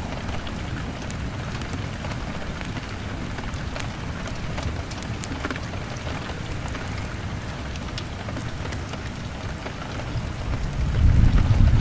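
Steady rain on a window pane with scattered sharp crackles from a log fire. A low rumble swells near the end.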